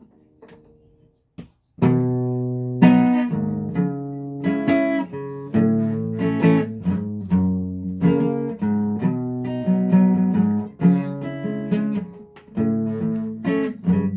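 Guitar strummed in chords, setting in about two seconds in after a few faint picked notes, with a steady rhythmic pattern of strokes as a song accompaniment.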